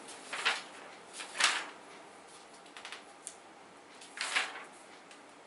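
A few short rustles and a run of light clicks: handling noise, such as pages or a keyboard and mouse being worked, while looking for the next question.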